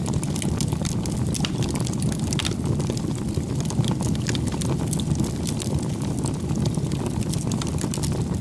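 Campfire crackling: a steady low rumble of burning wood with many small, sharp pops and crackles scattered through it.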